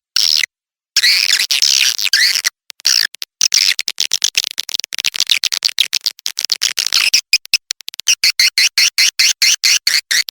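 Swiftlet calling track (edible-nest swiftlet lure sound): shrill twittering chirps alternating with fast trains of clicks, in bursts cut by abrupt silent gaps, the clicking getting denser through the middle.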